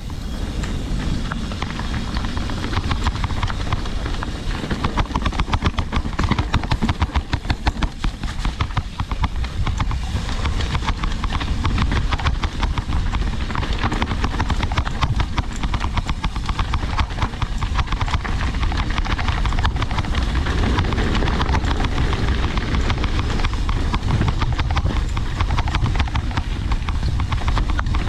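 Mountain bike clattering and rattling as it rides down a rocky downhill trail, with steady rumbling wind noise on the microphone.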